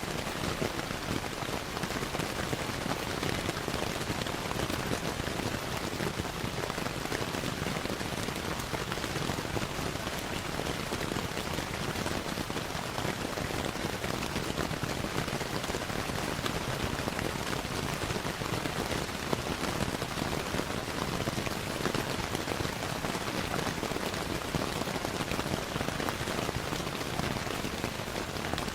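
Steady rain with a dense patter of drops, mixed with the crackle of a fireplace. It carries on evenly without pause.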